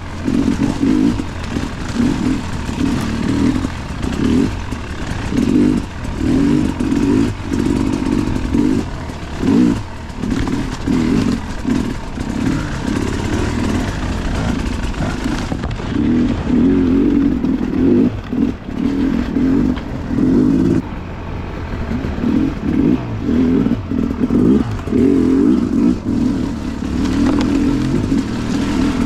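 Enduro dirt bike engine being ridden, revving up and down over and over as the throttle is opened and closed.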